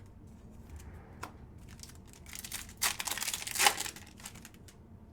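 Crinkling and rustling of plastic card-pack wrappers and trading cards being handled, with a few light clicks; the crinkling is loudest from about two and a half to four seconds in.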